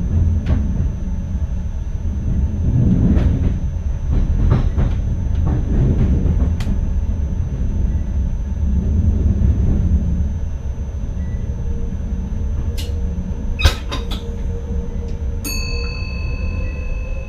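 Running noise heard inside the driving cab of an NS ICM (Koploper) electric multiple unit: a steady low rumble with scattered clicks over the rails and a sharp knock about 14 seconds in. Near the end a steady tone starts suddenly, and a faint whine rises slowly in pitch.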